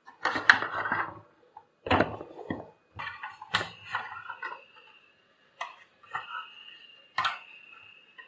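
Hard plastic parts of a vacuum cleaner knocking and clattering as they are handled during disassembly, in a string of irregular knocks, loudest in the first second.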